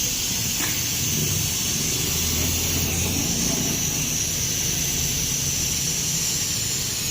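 Compressed air hissing steadily as it is blown through a car A/C system's lines to clean them out, before any refrigerant is charged.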